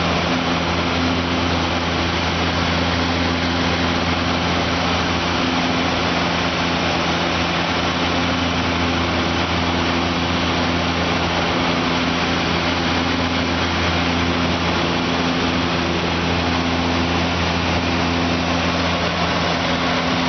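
Steady, loud drone of a small twin-turboprop airliner's engines and propellers heard inside the cabin, a constant hum over dense roar with no change in pitch.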